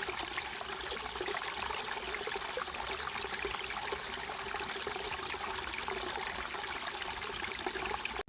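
Running water of a small stream, a steady, even rush.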